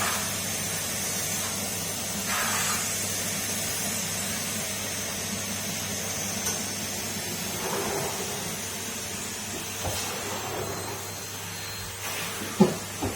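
Numatic Henry cylinder vacuum cleaner running steadily with a constant hum and airflow hiss, with one sharp knock near the end.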